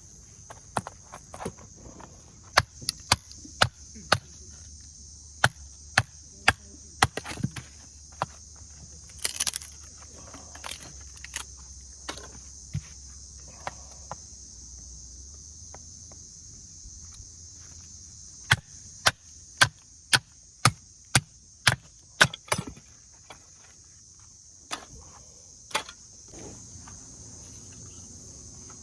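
Insects chirping steadily, with repeated sharp knocks and cracks over them, coming in clusters and in a run of about two a second around two-thirds of the way through.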